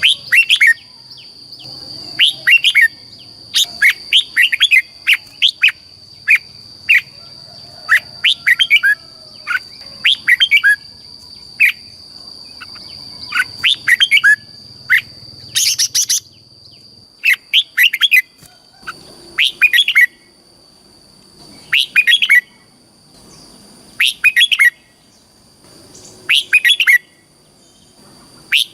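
Red-whiskered bulbul singing: short, quick whistled phrases repeated every second or so, over a steady high-pitched tone that stops about halfway through.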